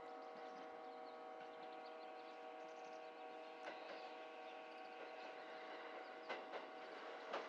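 An approaching Sanyo Electric Railway train: a faint steady hum made of several pitches, then the first few sharp wheel clicks over rail joints near the end as it nears the station.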